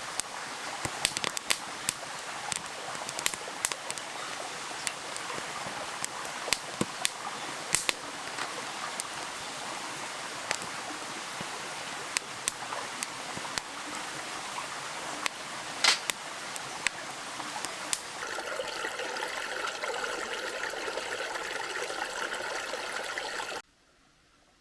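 Small stream running with a steady rush, with frequent sharp pops and crackles on top. Near the end the sound turns to a smoother hiss and then cuts off abruptly.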